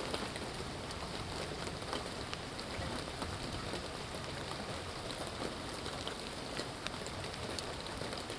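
Steady rain falling, an even hiss with scattered small taps of individual drops.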